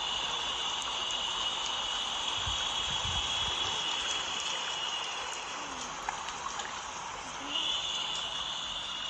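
Steady white noise for soothing a baby, a rain-like hiss, with a higher hissing layer on top that stops about five seconds in and comes back near the end. A few soft low thumps a few seconds in.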